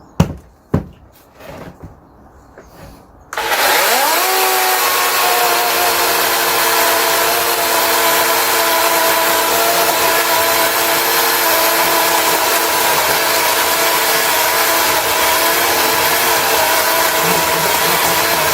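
A few knocks, then a DeWalt 18 V cordless chainsaw starts about three seconds in. Its electric motor whines up to speed and runs steadily with the chain's noise as it cuts a small log.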